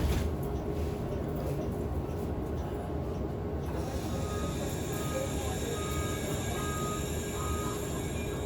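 Subway train running, heard from inside the car: a steady rumble and hiss, with a high whine coming in about halfway. A string of about five short, evenly spaced beeps sounds through the second half.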